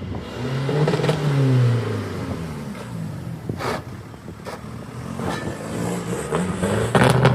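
A car engine revving, its pitch rising and falling, loudest about a second in and again near the end.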